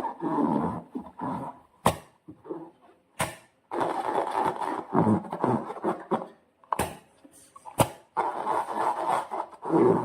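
Slime being squeezed and worked by hand: irregular wet, sticky squelching, with four sharp clicks or snaps spread through.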